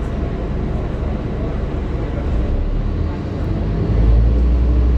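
Scania E400 double-decker bus running, with a steady low engine drone that swells louder about four seconds in.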